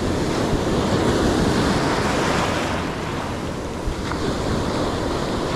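Ocean surf breaking and washing up the beach, a steady roar that swells and eases, with wind buffeting the microphone.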